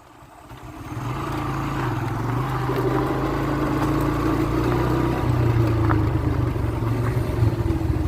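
A vehicle's engine running steadily with a low hum, fading in over the first second.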